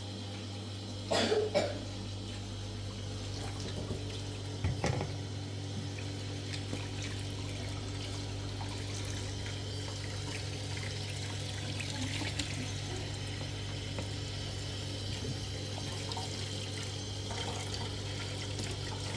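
Steady running water, with a steady low hum under it and two louder short splashes or knocks, about a second in and about five seconds in.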